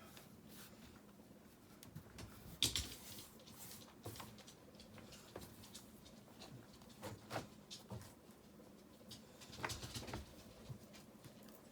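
Scattered faint taps, clicks and scrapes of river rocks being handled and set in mortar, with a sharper scrape about two and a half seconds in and small clusters of knocks later on.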